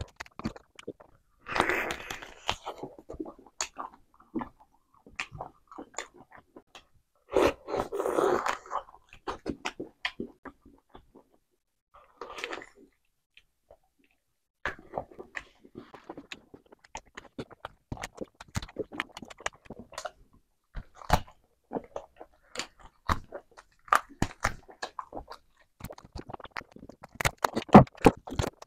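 Close-up eating sounds of chicken on the bone being bitten and chewed: a run of short wet clicks and smacks, with two longer, louder bursts near the start and about eight seconds in, and a short pause about halfway through.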